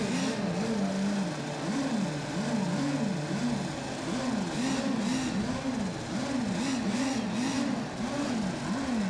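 Radio-controlled racing boat engines revving up and down again and again, about twice a second, as the boats mill about before the race start.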